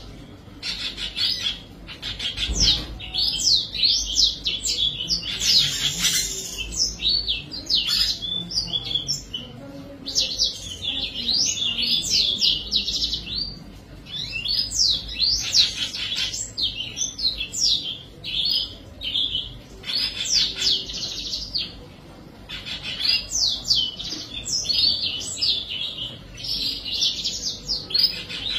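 Birds chirping: many rapid, high chirps overlapping in bouts, with brief lulls between them.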